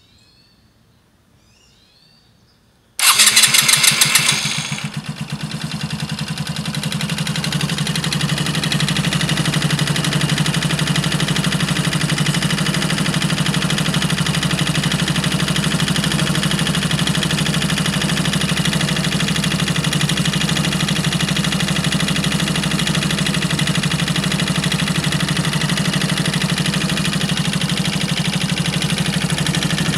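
Suzuki 125 cc scooter engine started about three seconds in: a loud burst as it catches, then it settles into a steady idle. The owner takes the running engine to be making an abnormal noise.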